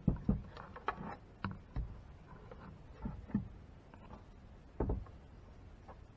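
Scattered light knocks and taps, about eight over several seconds, from a plastic ATV fuel tank being handled and turned over on a work surface. The firmest knocks come near the start and again shortly before the end.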